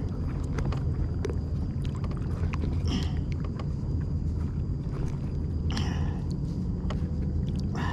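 Steady low rumble of wind on the microphone and water moving along a kayak hull at sea, with two short splashing hisses, about three and six seconds in.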